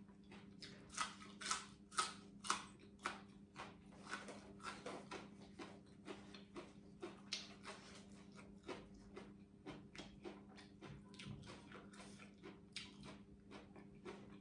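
Close-up crunching of a person chewing crisp food: irregular crunches about two to three a second, loudest in the first few seconds. A faint steady low hum runs underneath.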